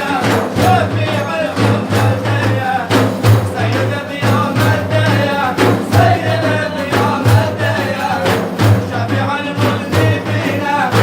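Madih, religious praise singing: a voice singing a wavering melody over a hand drum beaten in a steady rhythm, with a steady low hum beneath.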